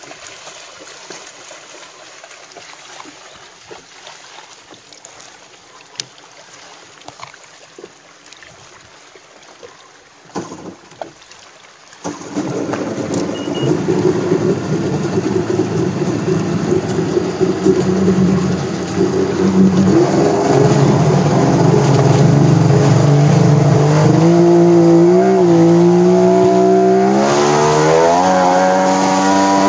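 Jet ski engine starting suddenly about twelve seconds in after a few knocks, then running loud and steady, and rising in pitch as it is throttled up near the end.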